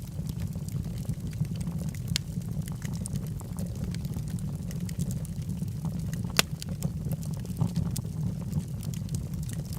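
Wood fire burning in a fireplace: a steady low roar of flames with scattered crackles and pops from the logs, one sharp pop louder than the rest about six and a half seconds in.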